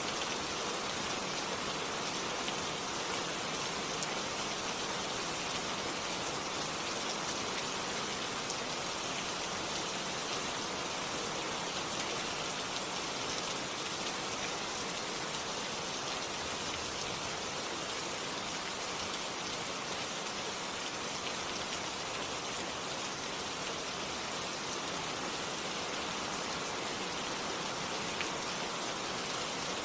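Steady rain falling, an even hiss of raindrops with scattered small drop ticks and no thunder.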